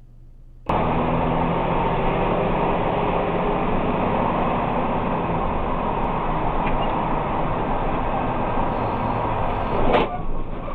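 Steady vehicle engine and road noise that starts abruptly about a second in and breaks off sharply near the end.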